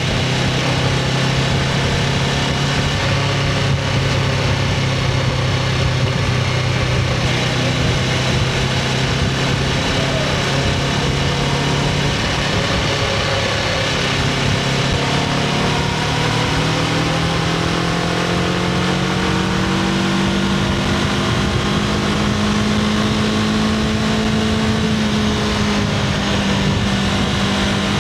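Honda CBR500R's parallel-twin engine with the stock exhaust running at a steady pitch, then climbing smoothly in pitch for several seconds just past the halfway point and holding at the higher note.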